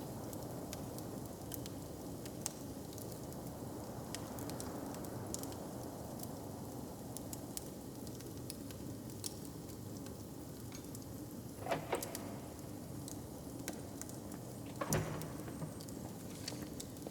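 Wood fire crackling and popping in scattered sharp clicks over a steady low rumble, with two louder bursts of crackles and knocks about twelve and fifteen seconds in.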